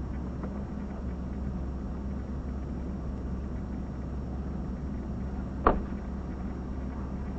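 Steady low hum of an idling vehicle engine, with one sharp click about five and a half seconds in.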